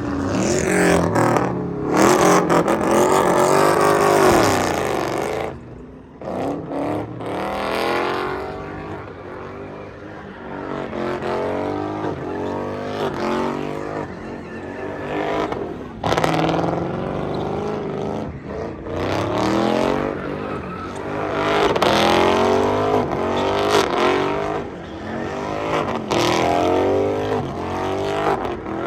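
Car engines revving hard and accelerating, their pitch climbing and dropping again and again, loudest in the first five seconds.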